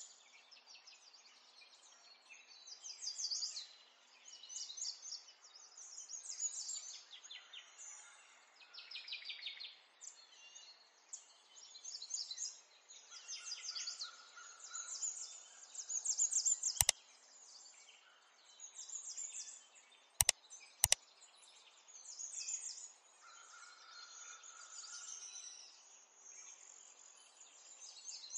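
Small birds chirping and singing in repeated rapid trills, with a steady background hiss. Three sharp clicks cut through: one about two-thirds of the way in, then two more half a second apart.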